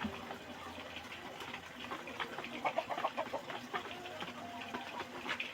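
A flock of chickens clucking and chirping, with a run of short, quick clucks about halfway through.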